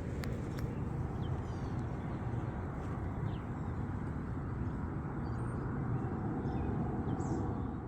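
Outdoor ambience: a steady low rumble, with a few faint short bird chirps scattered through it.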